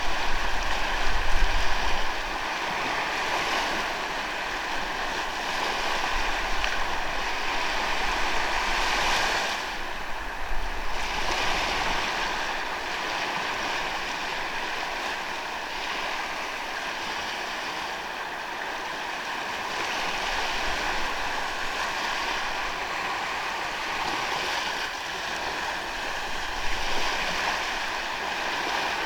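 Ocean waves washing onto a sandy beach: a steady rush of surf that swells and eases gently. A louder low rumble comes in the first two seconds.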